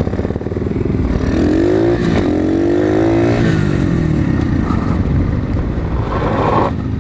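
Motorbike engine running while ridden. Its pitch climbs about a second in, holds, and drops back after about three and a half seconds as the throttle comes off.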